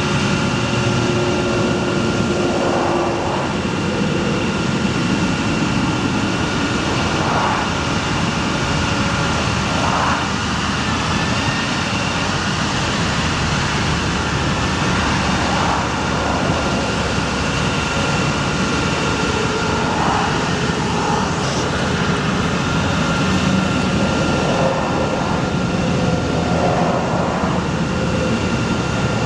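A 2008 GMC C5500 bucket truck running steadily: a low engine rumble with a constant high whine over it.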